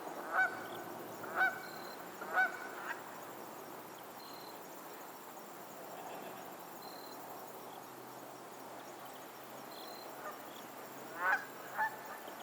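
Geese honking: three honks about a second apart at the start, a long lull, then two more honks near the end.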